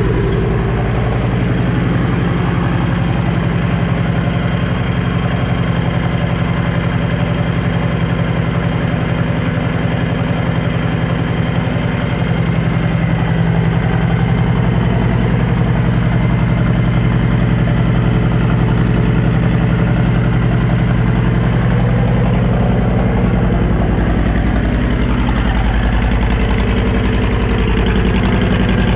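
2012 Honda VT1300C Interstate's V-twin engine idling steadily through Vance & Hines aftermarket pipes, freshly started.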